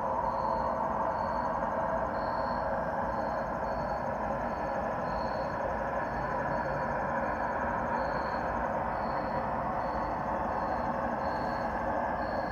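A steady, unexplained droning rumble coming from the sky, holding level throughout. A faint high chirp repeats about once or twice a second above it.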